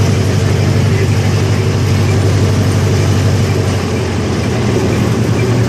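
Park ride train running, a steady low engine hum over rumbling noise; the hum steps up slightly in pitch about four seconds in.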